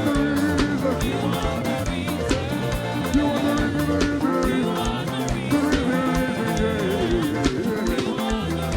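Live praise band playing an upbeat worship song, with the drum kit keeping a steady beat under bass and melodic lines that slide in pitch.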